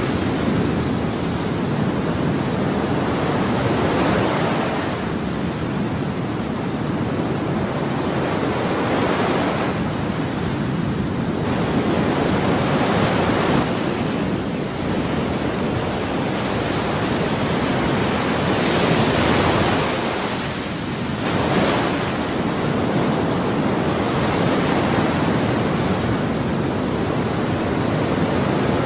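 Ocean waves breaking on a shore: steady surf noise, with the hiss swelling every few seconds as individual waves break.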